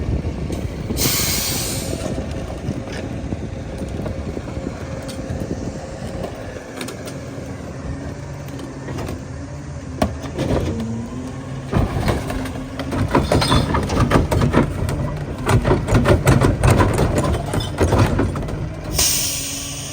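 Heil PowerTrak rear-loader garbage truck's CNG engine and packer hydraulics working, with a sharp hiss of air about a second in and again near the end. From about halfway on, heavy trash cracks and snaps repeatedly as the packer blade crushes it in the hopper.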